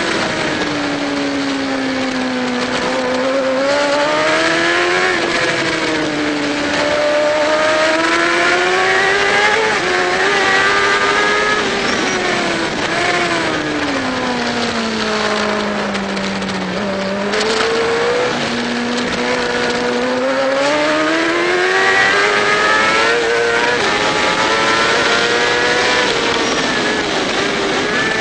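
Racing motorcycle engine heard from onboard, revving up and falling away as the bike accelerates and slows for corners. The pitch drops at the start and again, most deeply, about halfway through, then climbs back up, with rushing noise over it.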